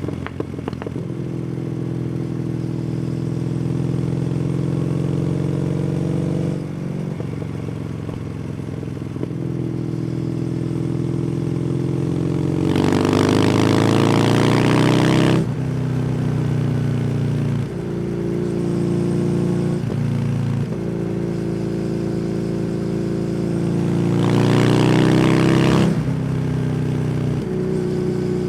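Kawasaki W800's air-cooled parallel-twin engine running through an SC Project exhaust while riding. It runs at a steady note, and its pitch shifts at several points. It opens up twice, about halfway through and again near the end, rising in pitch and getting louder before easing off.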